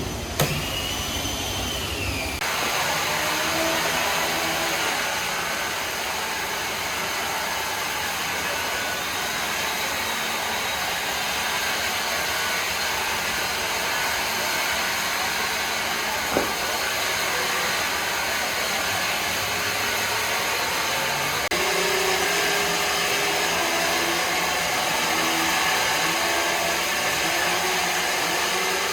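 Woodworking machinery running steadily, a continuous dense machine noise that changes character about two seconds in and again about twenty-one seconds in, with one short sharp click a little past the middle.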